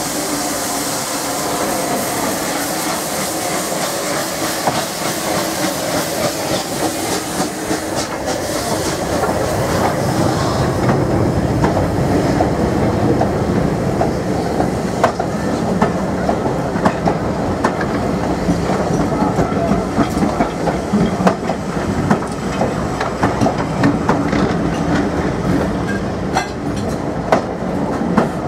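A steam-hauled train passing close by on the adjacent track behind Bulleid light Pacific No. 34092. A hiss runs over the first ten seconds or so as the locomotive draws alongside, then the coaches roll past with a steady clickety-clack of wheels over rail joints.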